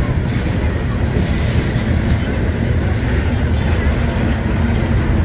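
A train passing close by: a loud, steady rumble of wheels on the rails.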